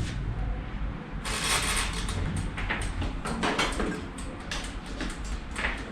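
Kitchen oven being set to preheat: a quick run of clicks and knocks from its door and controls, starting about a second in.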